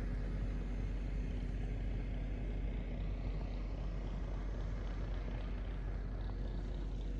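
Excavator's diesel engine running steadily under work.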